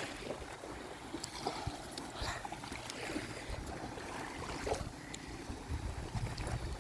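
Ocean surf washing onto the beach, with wind rumbling on the phone's microphone.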